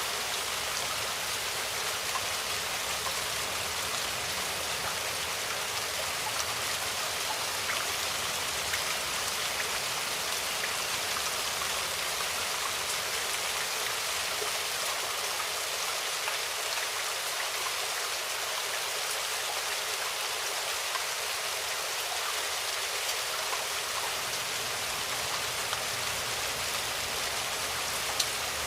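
Steady rain falling, an even hiss with many small drop ticks, one sharper tick near the end.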